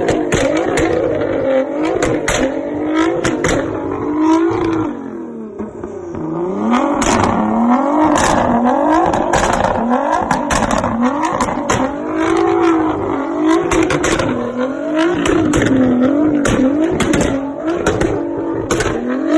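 Nissan GT-R NISMO exhaust as the engine is revved again and again, the pitch rising and falling about once a second, with many sharp pops and cracks from the exhaust. There is a short lull about five seconds in.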